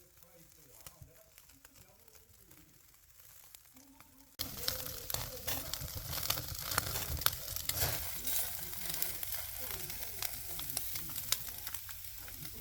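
Pork neck sizzling on a wire grill over hot charcoal, with fat popping and crackling. It is quiet for the first few seconds, then the sizzling starts abruptly and carries on steadily.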